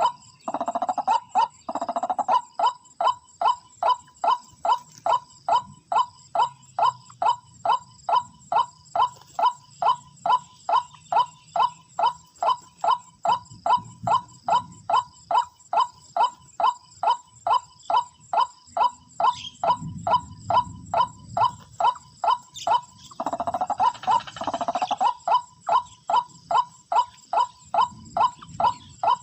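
White-breasted waterhen call repeated over and over as a trapping lure: short notes about two a second, with very even timing. There is a louder, fuller run of notes about three-quarters of the way through.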